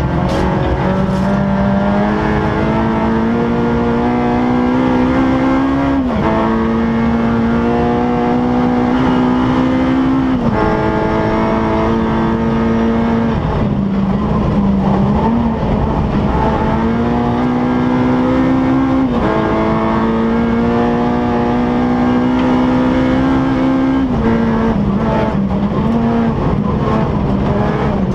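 Honda Civic Type R's four-cylinder engine running hard, heard from inside the cabin under full acceleration. Its note climbs slowly in pitch and drops suddenly about five times, over a steady rumble.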